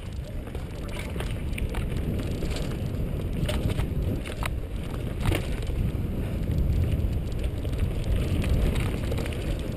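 Mountain bike rolling fast over a rough trail: wind rushing over the microphone, with a few sharp clicks and knocks from the bike over bumps.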